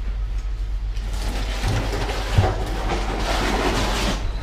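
Steady low machine drone with a rattling, rolling noise building from about a second in, and a single knock about halfway through.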